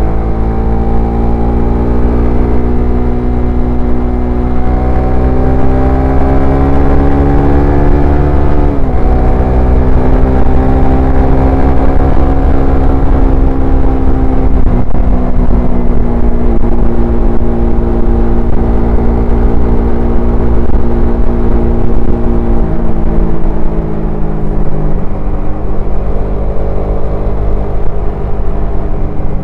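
Suzuki Satria FU 150 fuel-injected single-cylinder four-stroke engine and exhaust under way. The revs climb gradually for about eight seconds, drop sharply about nine seconds in, then hold fairly steady with a few smaller dips. A low wind rumble on the microphone runs underneath.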